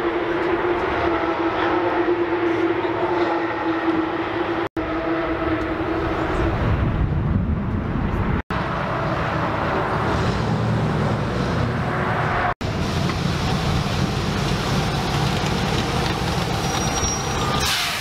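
Car engines running, in several short clips cut together with abrupt breaks about every four seconds: first a steady engine drone, then a lower, rougher engine rumble.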